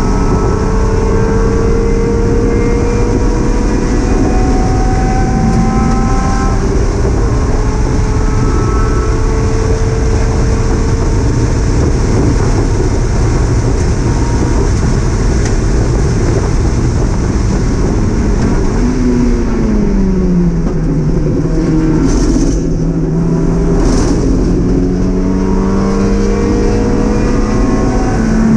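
Mazda MX-5 race car's four-cylinder engine heard from inside the cabin, pulling hard with the revs climbing slowly for a long stretch. About two-thirds of the way through the revs fall away for a couple of seconds, then build again, with two brief sharp noises along the way. Right at the end the revs jump up.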